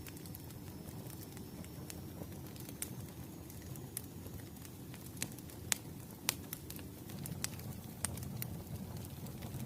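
Wood fire burning: a steady low rumble of the flames with scattered sharp crackles and pops from the burning logs, coming most often around the middle.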